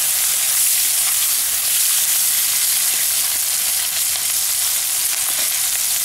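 Sliced onions and green capsicum sizzling steadily as they fry in hot oil in a kadai, stirred and turned with a spatula.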